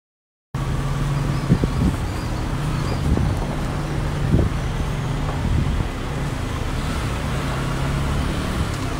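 Vehicle engine running steadily at low speed, heard from inside the cabin while driving on a rough dirt lane, with a few thumps in the first half. The sound cuts out for a split second right at the start.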